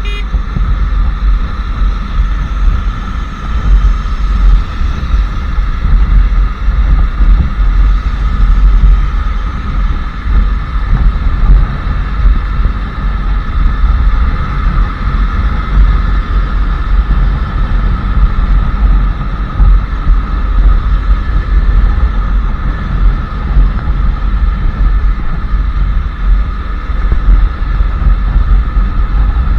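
Royal Enfield Classic 350 Reborn's 349 cc single-cylinder engine and exhaust running steadily while the motorcycle is ridden at an even pace, with no marked revving or gear changes.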